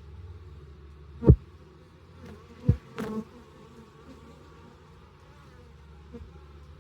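Honey bees buzzing at a hive entrance as a steady low hum. Twice, about a second in and again under three seconds in, a bee flies close past with a loud buzz that quickly drops in pitch, and a brief sharp tick follows just after the second.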